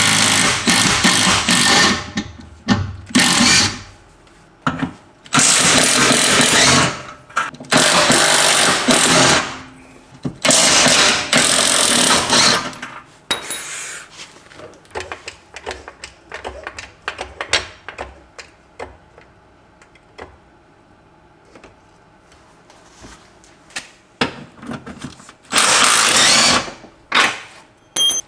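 Power tool run in repeated short bursts of one to two seconds, with quiet gaps and small clicks between them, as fasteners are worked loose during muffler removal.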